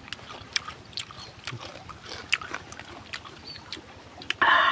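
Close-up mouth sounds of raw green tamarind pods with chili being eaten: irregular sharp clicks of chewing and crunching, with a louder noisy bite or slurp lasting about half a second near the end.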